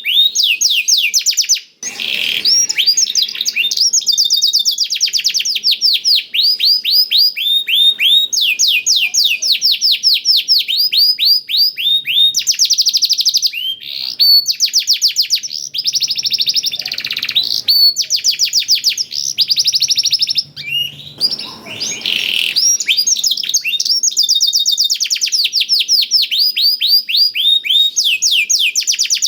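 Domestic canary singing a long, unbroken song of fast trills of falling chirps, about ten a second, taught with phrases of the black-throated canary. The trills break off briefly twice.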